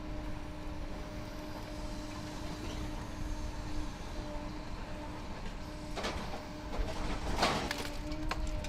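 Car-shredding plant machinery running with a steady hum, and loose scrap metal scraping and clattering through it for a couple of seconds about six seconds in.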